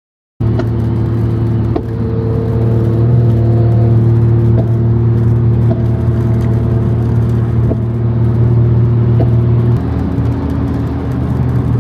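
Car engine and exhaust running at steady revs, cutting in abruptly with an even drone, then dropping to a lower tone about ten seconds in.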